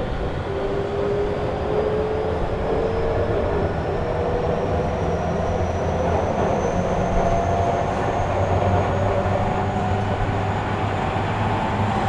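Tobu 'Kabocha' electric train (car 59009) accelerating: the motor and inverter whine rises slowly and steadily in pitch over the running rumble of the wheels, heard from inside the car.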